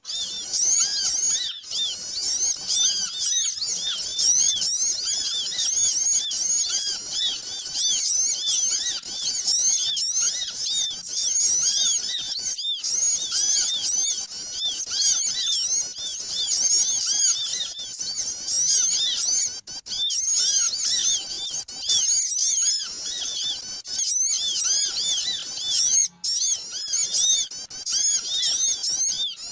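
Dense, noisy chorus of many small songbirds chirping rapidly and over one another without a break: a bird-lure recording meant to draw small birds in.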